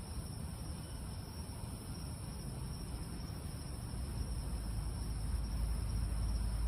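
Night ambience: a steady high insect chorus, like crickets, over a low rumble that grows louder about four seconds in.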